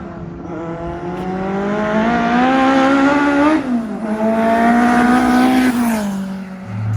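Car engine accelerating hard, its pitch climbing, dropping sharply about three and a half seconds in as if on a gear change, pulling again, then falling away near the end as the throttle eases off.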